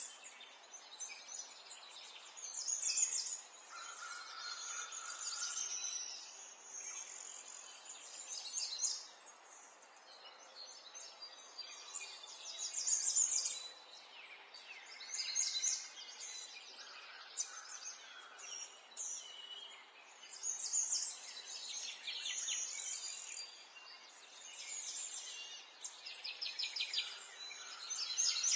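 Wild birds singing and chirping, several overlapping with one short phrase or rapid trill after another, over a faint steady hiss.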